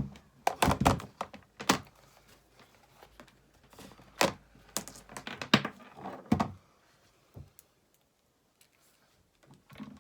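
Irregular knocks and clicks, a handful of sharp ones in the first seven seconds, then near quiet.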